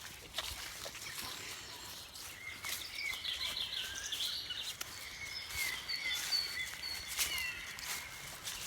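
Birds chirping and calling, with a quick trill about three seconds in and short rising and falling notes, over scattered faint clicks.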